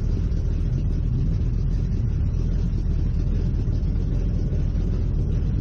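Race car engine idling with a steady low rumble, heard from inside the stripped, roll-caged cockpit.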